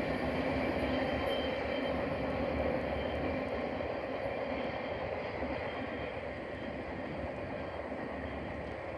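Double-stack container freight train rolling away along the track, the steady rumble of its cars on the rails slowly fading as it recedes.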